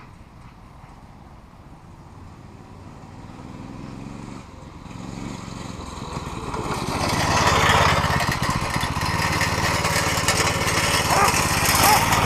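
Mini bike's small gas engine running, faint at first and growing louder over the second half.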